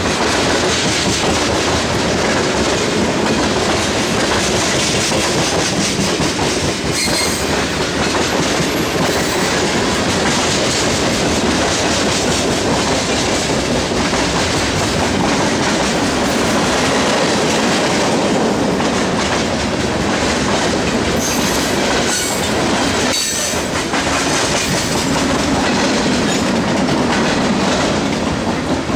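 Freight train cars rolling past close by, tank cars then boxcars, their steel wheels clattering over the rail joints in a steady rumble, with a few sharper clanks.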